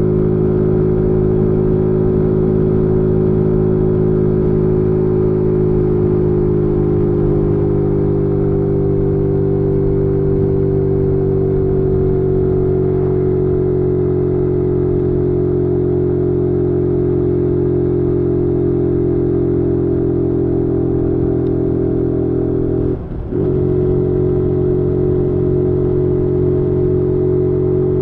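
Zontes G1 125's single-cylinder four-stroke engine running steadily under way at fairly constant revs, the pitch rising slightly and then easing off a little. About three-quarters of the way through it dips briefly in pitch and loudness, then settles back to the same steady note.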